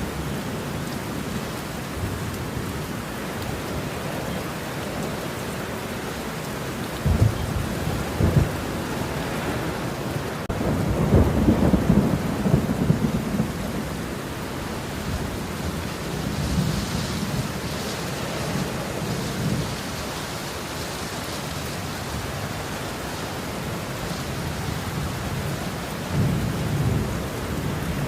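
Steady rain with rolling thunder: low rumbles swell several times, the longest and loudest in the middle.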